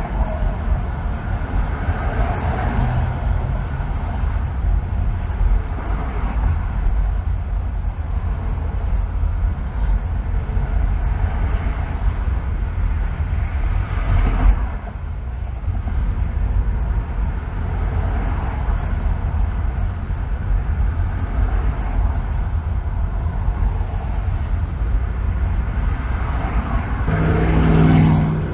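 Steady road noise of a car driving on a freeway: a low tyre and road rumble with a few swells of other vehicles going by. The loudest swell, near the end, carries a humming engine note.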